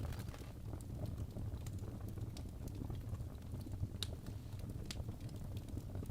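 Wood fire in a fireplace crackling: irregular sharp pops and snaps over a steady low rumble of the flames, with one louder pop about four seconds in.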